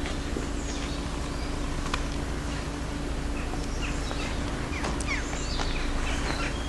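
Small birds chirping in short, scattered calls over a steady low rumble and a faint steady hum.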